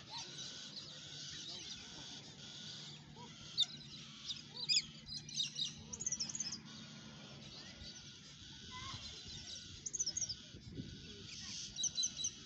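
Birds chirping: many short, quick high calls, in clusters a few seconds in and again near the end, over a steady background of fainter calls.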